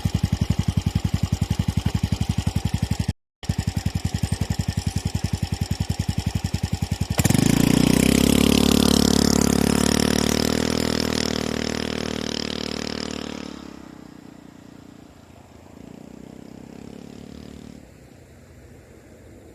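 Exhaust of a Yamaha Majesty 250 scooter's single-cylinder four-stroke engine through an aftermarket dual muffler: idling with even exhaust pulses, then revving up suddenly about seven seconds in, after which the sound slowly fades away.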